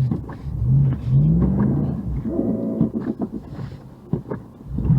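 Car engine revving repeatedly, its pitch climbing and dropping back, as it strains to push through deep snow while stuck in a drift.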